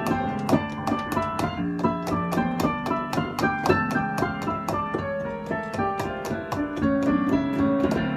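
Piano playing a fast, rhythmic instrumental line of short repeated chords and notes, over a steady percussion beat of sharp ticks.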